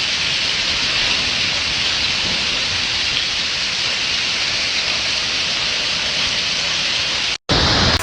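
Heavy rain in a storm, a dense steady hiss. Near the end the sound cuts out abruptly for a moment and comes back as a different, louder noise.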